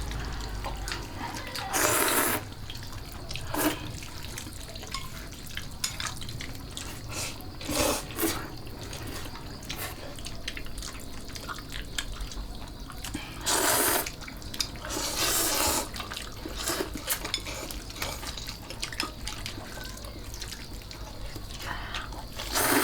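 Water splashing and trickling with small clicks and knocks. Louder splashes or pours come every few seconds.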